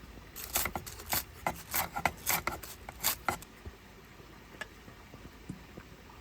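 A quick run of about ten scraping strokes over roughly three seconds, then a few faint ticks.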